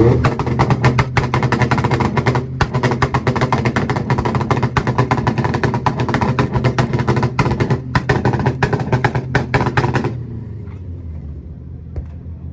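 Car engine held on a two-step launch limiter: a rapid, uneven string of exhaust pops and bangs that stops abruptly about ten seconds in.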